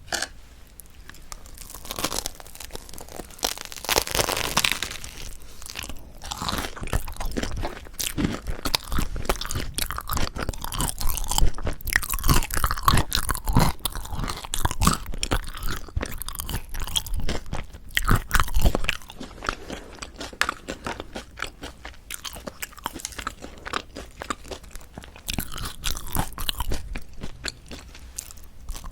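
Close-miked crunching bites and chewing of a Korean salad bread roll with an over-toasted, crisp crust: dense, irregular crackles come in bursts with chewing in between.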